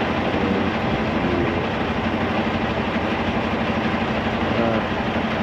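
Semi-truck's diesel engine idling with a steady rumble.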